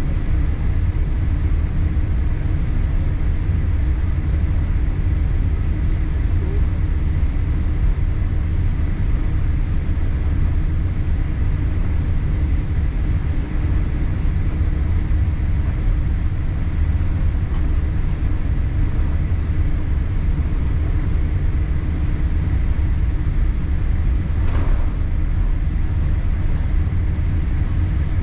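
Steady low rumble of cabin noise inside a Boeing 787-8 on the ground after landing, with a faint click about 24 seconds in.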